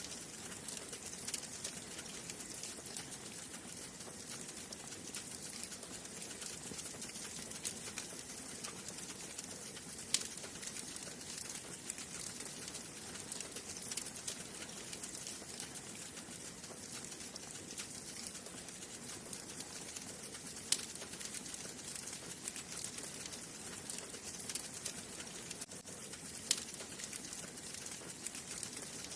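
Wood fire burning in a fireplace: a steady hiss with dense small crackles and a few sharper pops, the loudest about 10, 21 and 26 seconds in.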